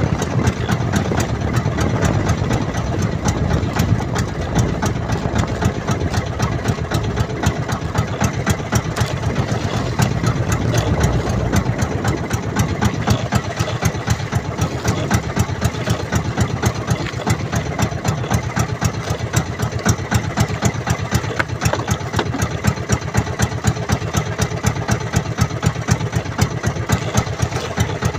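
Small fishing boat's engine running steadily at low speed, a low hum with an even beat of pulses a few times a second.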